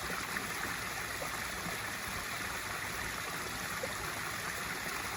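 Swimming pool waterfall feature pouring steadily into the pool: an even rush of falling, splashing water with small droplet ticks through it.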